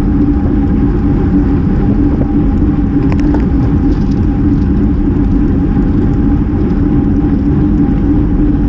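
Steady wind rush on a GoPro's microphone from a road bike moving at race speed, with a steady hum underneath.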